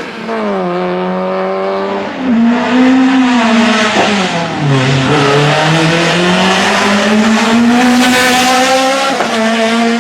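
Car engine running under load, its pitch dropping and climbing as the revs change, with a rushing noise that swells over the second half.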